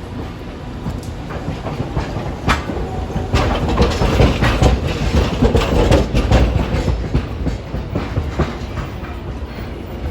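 Hiroshima Electric Railway streetcar rolling by, its wheels clicking and clattering over rail joints and points. It grows louder a couple of seconds in, is loudest in the middle, then eases off.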